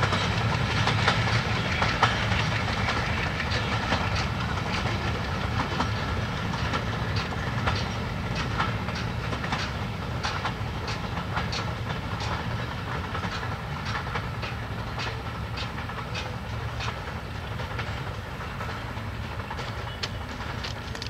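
Passenger train coaches rolling away over the rails, the wheels clicking over rail joints in a clickety-clack over a steady rumble, fading slowly as the train recedes.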